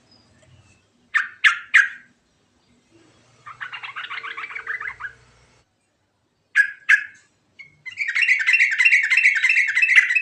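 Yellow-vented bulbul (trucukan) singing: three sharp, quick notes, a short chattering phrase, then two more sharp notes. About eight seconds in, it breaks into a fast, rolling run of repeated notes.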